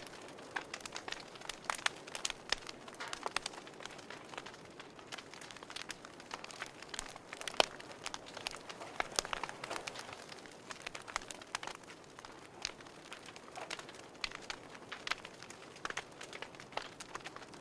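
Wood fire burning in a fireplace, crackling and popping irregularly over a soft steady hiss.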